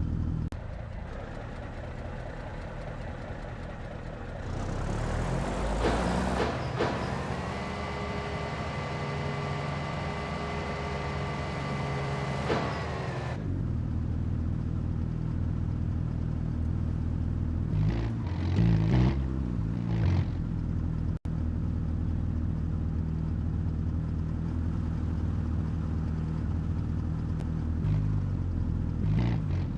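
Tow truck engine idling steadily. About four seconds in, a steady mechanical whine from the truck's hydraulics starts up under it, runs for about nine seconds and cuts off suddenly.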